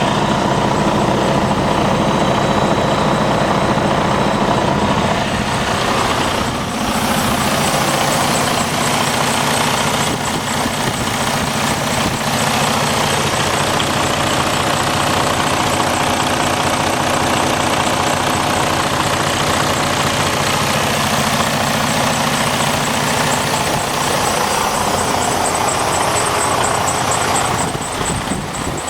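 Detroit DD15 14.8-litre inline-six diesel engine idling steadily.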